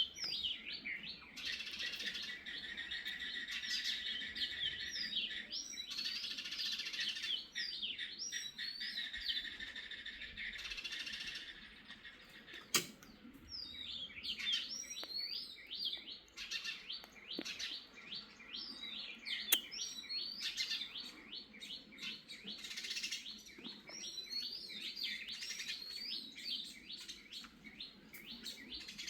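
Many small birds chirping and twittering in quick, overlapping calls. Two sharp clicks stand out partway through.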